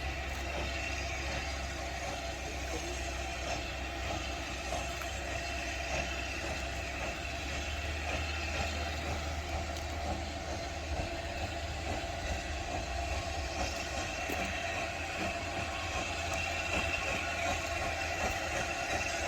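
Train running steadily: an even rumble with a low hum and no distinct beat.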